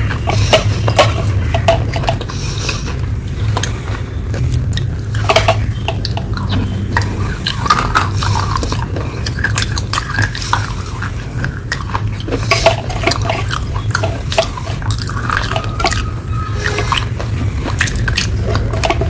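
Close-miked chewing of edible clay: scattered sharp crunches and crackles mixed with wet, sticky mouth sounds. A steady low hum lies under it.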